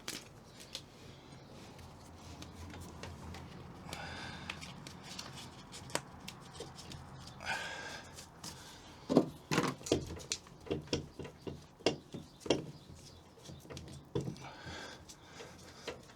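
Insulation and sound-deadening sheets being handled and pressed into a bare car body: scattered knocks and taps with brief rustling, the knocks coming thick and fast in the middle.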